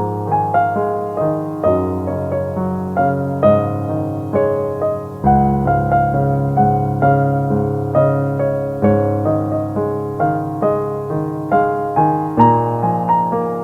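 Gentle solo piano music: a flowing run of single struck notes, each fading away, over held bass notes, with a fuller low chord coming in about five seconds in.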